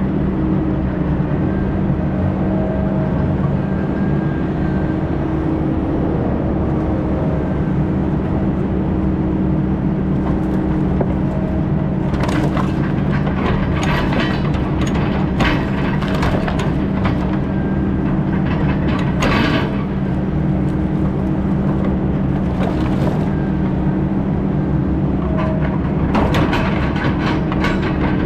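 Heavy diesel logging machine running steadily under load, with wood cracking and snapping again and again from about halfway through, louder in clusters near the end.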